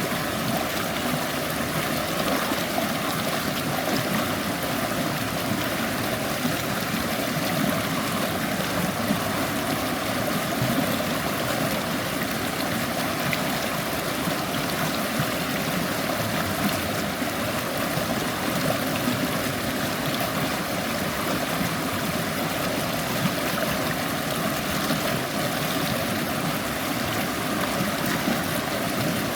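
Shallow stream running over stones, a steady babbling rush of water that holds even throughout.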